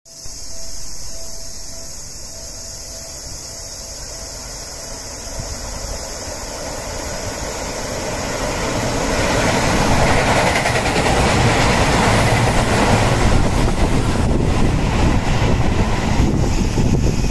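Seibu 001 series Laview limited express electric train approaching and passing through the station. Its running noise builds from about eight seconds in and stays loud to the end, with a faint pulsing tone in the first few seconds.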